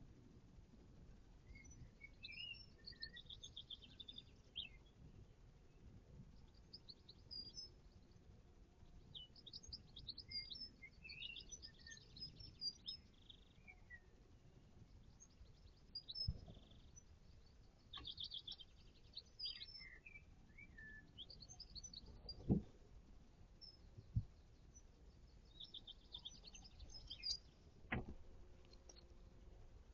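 Garden songbirds chirping and singing faintly throughout, with short quick trills. A few soft knocks break in, the sharpest about two-thirds of the way through.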